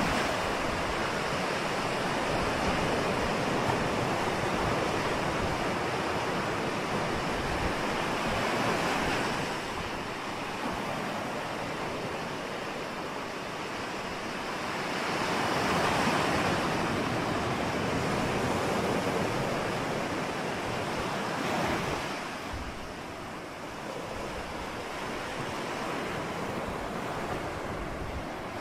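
Ocean surf: waves washing in a continuous rushing hiss that swells and ebbs over several seconds, with one stronger wave about halfway through and a sharper surge a few seconds later. Wind also blows across the microphone.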